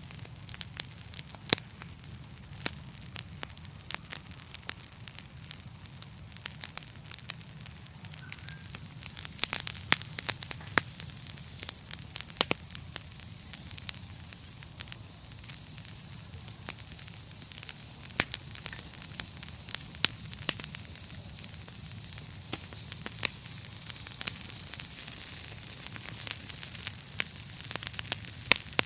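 Wood fire crackling: irregular sharp pops and snaps over a steady low rumble and a soft hiss of the flames.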